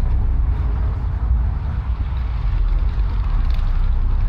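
Low, steady rumble of a car engine idling close by.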